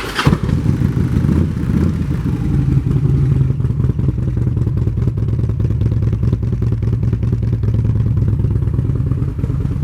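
2007 Harley-Davidson Electra Glide Ultra Classic's Twin Cam 96 V-twin, running through Vance & Hines aftermarket exhaust pipes, catching right at the start and then idling steadily with a loud, lumpy exhaust note.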